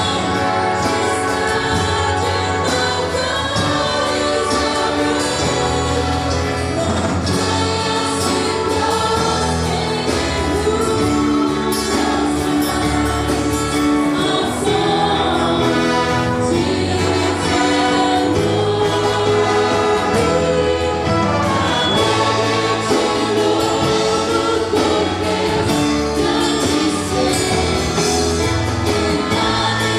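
Congregational worship music: a group of voices singing a hymn over sustained instrumental accompaniment.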